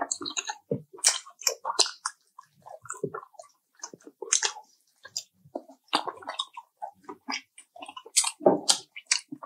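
Fried chicken being chewed close to the microphone: a dense, irregular run of short, wet mouth and chewing sounds.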